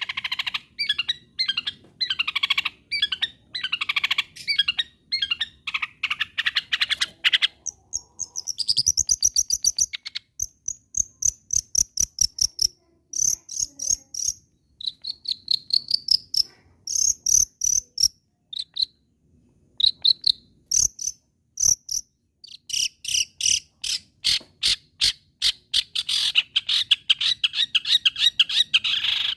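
Long-tailed shrike singing a varied song. It opens with fast, harsh chattering, turns to sparser, high, thin whistled notes with short pauses through the middle, and returns to dense, rapid chattering near the end.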